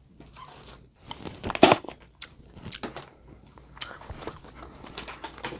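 Close-up mukbang eating of a seafood boil: biting and chewing with irregular crunches and snaps, the loudest cluster about one and a half seconds in.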